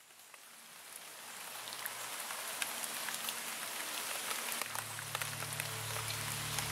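Rain falling steadily, with many single drops ticking; the sound fades in and grows louder over the first couple of seconds. About two-thirds of the way through, low steady tones come in beneath it.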